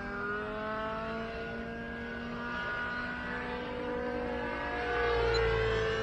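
O.S. 91 glow (nitro) engine of a radio-controlled helicopter running in flight with the main rotor turning, its governor holding the head speed; the pitch drifts slowly down and back up as the helicopter manoeuvres.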